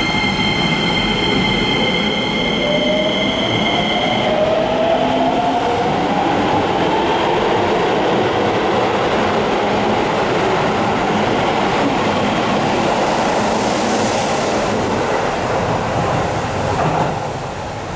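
Toyo IGBT-VVVF inverter of a Keisei 3000-series electric train (later software, before its update) whining under power. Several steady high tones stop about four seconds in, while a lower tone rises in pitch, and then wheel and running noise carry on.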